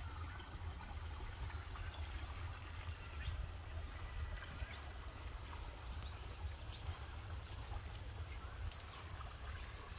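Rural outdoor ambience: a steady low rumble with faint, scattered bird chirps.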